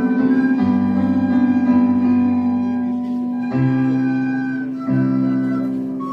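Slow instrumental music of held keyboard chords, typical of hymn or praise music, with the chord changing a few times.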